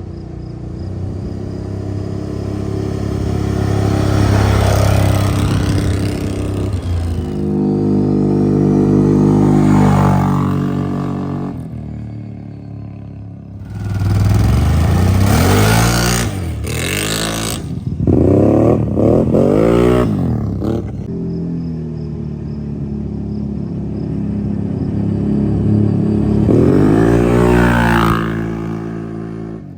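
Can-Am Outlander ATV's V-twin engine through an RPM stainless sport slip-on muffler. The engine is revved and ridden, its exhaust note rising and falling in several swells, with a quick run of hard revs in the middle.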